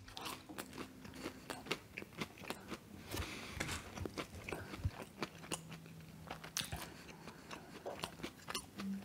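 Close-miked chewing of Chicken McNuggets, with frequent small crunches and wet mouth clicks throughout.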